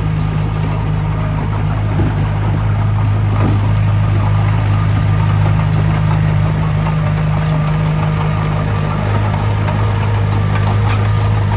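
Diesel engine of a construction machine running steadily at a constant speed, with scattered light clicks and clanks over the drone.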